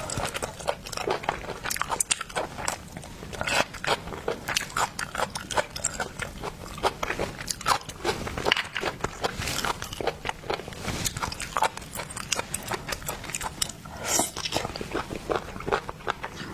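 Close-miked eating sounds: a person biting and chewing seafood, with many small crunchy clicks and wet mouth noises.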